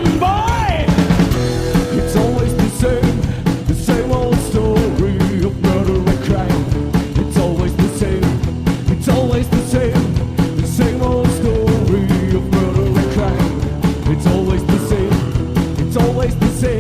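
Rock band playing an instrumental passage: a steady drum beat under bass and sustained midrange lines. A lead line bends up and down in pitch during the first second.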